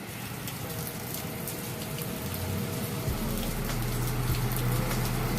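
Rain falling, with many small sharp drop ticks over an even hiss. A low steady hum comes in about two-thirds of the way through.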